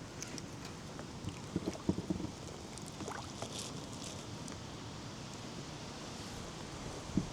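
A few dull knocks against a kayak, bunched about one and a half to two seconds in, with a few lighter ticks after and a single click near the end, over a steady outdoor hiss.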